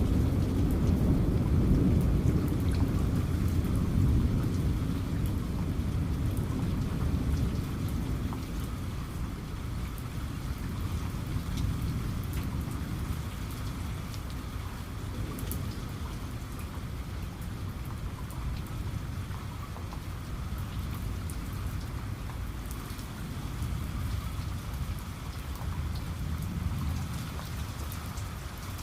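Steady heavy rain with scattered drop ticks, over a low rolling thunder rumble that fades away over the first several seconds; a fainter rumble swells again near the end.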